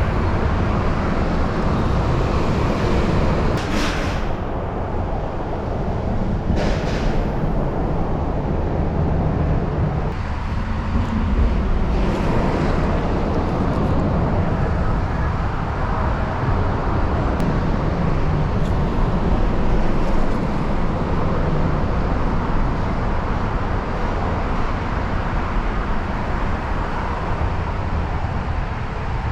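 Steady rushing noise of a fast-flowing creek with a heavy low rumble, with two brief brighter hissy swells about four and seven seconds in.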